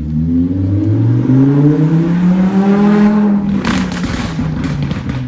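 Lamborghini Huracán V10 revving through a loud, non-stock exhaust: the pitch climbs for about three seconds, then falls away with a burst of crackles and pops.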